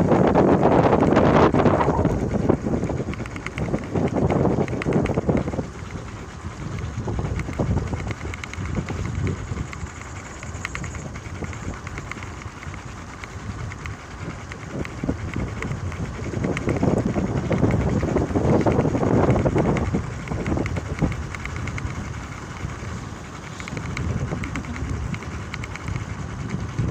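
Wind buffeting the microphone, rising and falling in irregular gusts, loudest near the start and again a few seconds past the middle.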